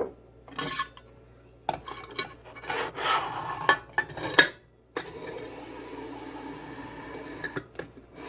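A stainless-steel French press being handled: metal clinks and scrapes, then a steady rasping rub from about five seconds in.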